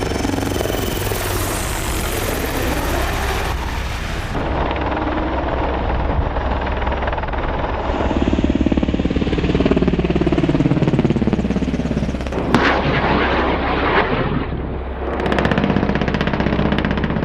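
AH-64 Apache attack helicopter flying, its rotor and engine making a steady low drone, with a sweep in pitch around the middle as it passes close. Two sharp bangs come near the end.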